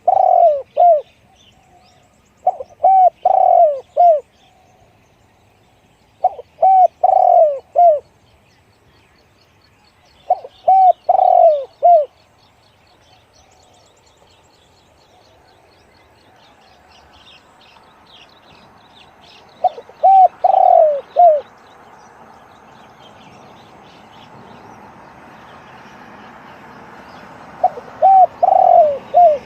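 Spotted dove cooing: six phrases of three or four short coos each, a few seconds apart with a longer pause in the middle. A faint steady hiss builds up in the background over the second half.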